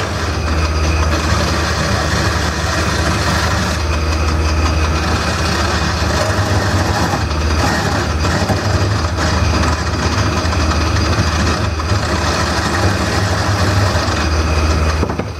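Wood lathe running with a steady motor hum while a turning tool cuts into the spinning bowl blank, hollowing it out with a continuous scraping hiss that eases for a moment near the end.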